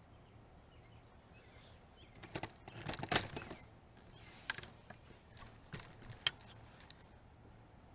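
A cluster of sharp, irregular clicks and crackles starting about two seconds in and dying out near the end, over a faint steady hum.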